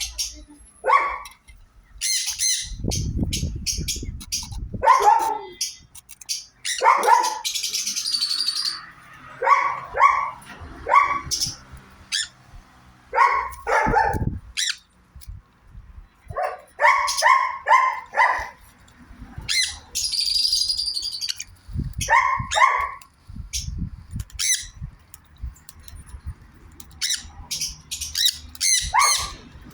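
Sun conures calling with repeated harsh squawks and shrill screeches, often in quick runs of three or four calls.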